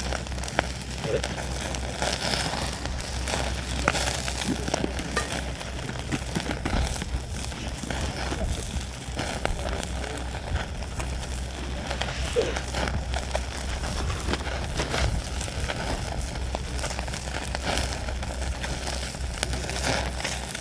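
Wood campfire crackling, with irregular sharp pops over a low steady hum.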